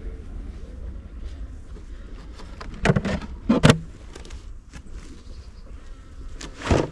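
Honeybees buzzing in and around an opened hive, calm after rain. Knocks and clunks from the hive's wooden parts being handled about three seconds in, again just after, and near the end.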